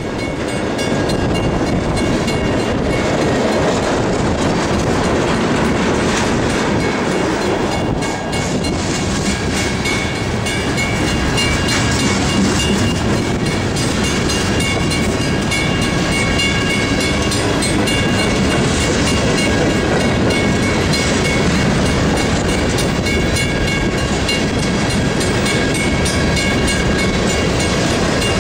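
Freight train of tank cars and covered hoppers rolling past, steel wheels clicking steadily over the rail joints, with wind buffeting the microphone.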